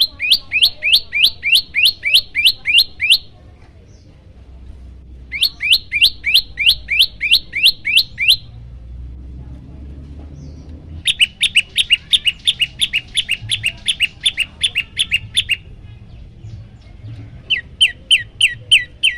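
A prenjak lumut songbird singing loud bouts of rapid, repeated, sharp downward-sweeping chirps, about three to four notes a second. There are four bouts with short pauses between them, and the third bout is faster with doubled notes.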